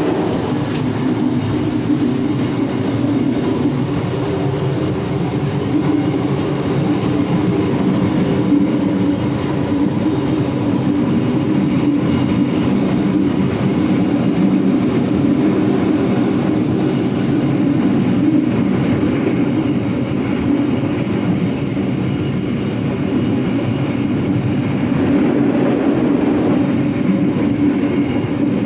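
Train in motion heard from the vestibule between carriages of a Bandung Raya economy local train: a steady, loud running rumble of the wheels on the rails and the car body.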